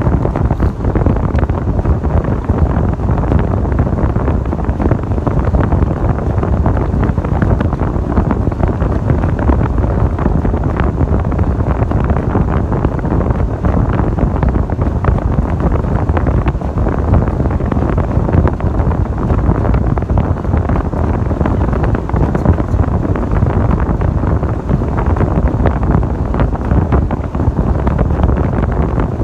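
Strong wind buffeting the microphone: a loud, steady, low rumbling rush with no distinct tones, unbroken throughout.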